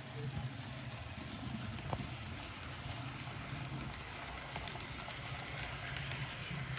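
HO scale model steam train pulling eight cars on Kato Unitrack: a steady low motor hum with wheels rattling along the track, and a sharp click about two seconds in.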